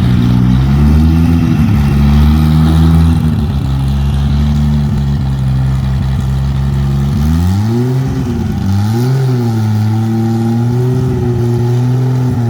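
1994 Toyota Supra race car's straight-six engine running at a steady idle, then revved up and back down twice about seven to nine seconds in before settling into a steady idle again.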